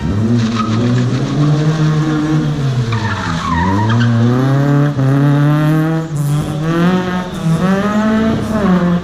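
Car engine driven hard, revs rising and falling over and over, with sharp drops about three and a half seconds in and again near six seconds, and tyres squealing as the car is thrown through tight turns.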